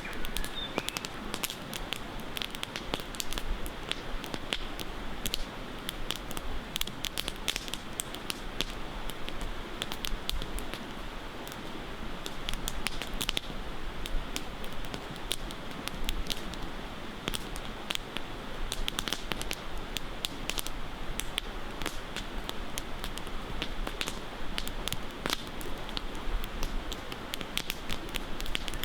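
Campfire crackling, with irregular sharp pops and snaps of burning wood over a steady background hiss.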